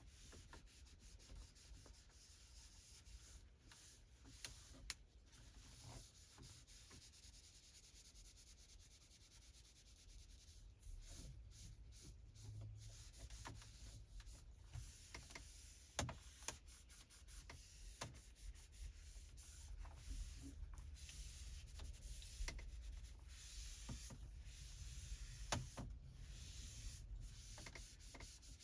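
Microfiber cloth rubbing and wiping across a car's interior surfaces in faint, continuous strokes, with a few scattered light clicks.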